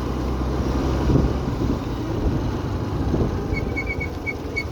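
Scooter riding along, with a steady engine hum and road noise and wind buffeting the microphone. A few short, high chirps come near the end.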